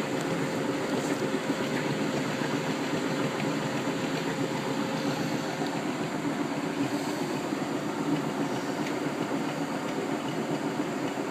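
Bendix 7128 washing machine running its wash: the drum turns with water sloshing and slapping at the bottom, a steady churning noise. The owner puts the water flapping down to the lip of a new door seal kicking water up and throwing it back into the drum.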